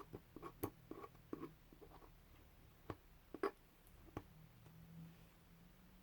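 Faint sticky crackles and sharp little clicks of masking tape being peeled off, a cluster in the first second and a half and the loudest pair about three and a half seconds in.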